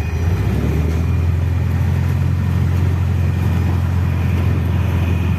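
Cessna 150's Continental O-200 four-cylinder engine running with a steady low drone, heard from inside the cabin.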